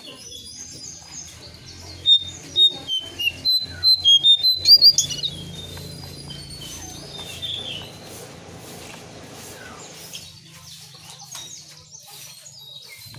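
Cingcoang coklat (lesser shortwing) singing: a rapid run of high, quick chirping notes, loudest about two to five seconds in, then thinner twittering, over a steady low hum.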